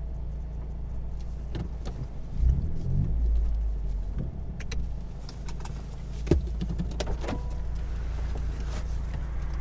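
Steady low exhaust drone heard inside the cabin of a 2018 Honda Accord with its resonator and muffler deleted. The drone swells louder for about a second, two and a half seconds in, and a few sharp clicks come later.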